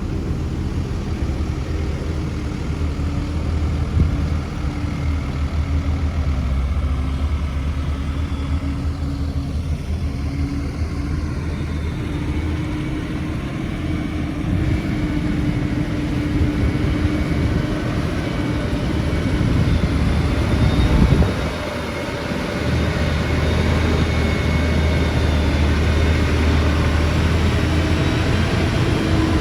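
Heavy diesel construction machinery running steadily, its engine drone swelling briefly about twenty seconds in and then easing off.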